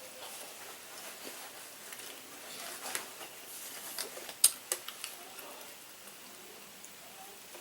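A person eating carne asada fries close to the microphone: wet chewing and mouth clicks with scattered sharp ticks, the loudest about four and a half seconds in.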